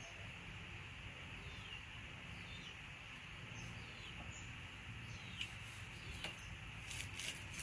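Faint chirping of small birds: scattered short, high, falling chirps over a steady background hum, with a few sharp clicks near the end.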